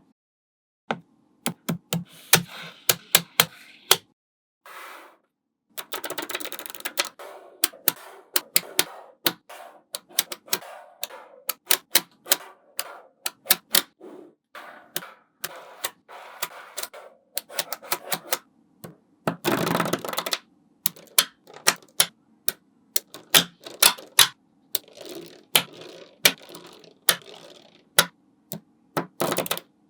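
Small magnetic balls clicking sharply as they snap onto one another, dozens of irregular clicks with light rattling between them, and a denser clatter about two-thirds of the way through.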